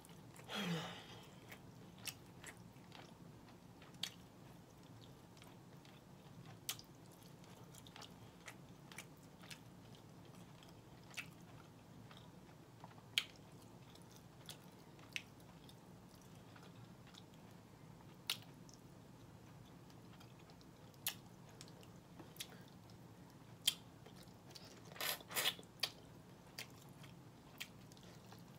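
Close-miked eating of smoked turkey neck: sparse sharp mouth clicks and smacks as the meat is chewed and picked off the bone by hand, with a quick run of louder bites near the end.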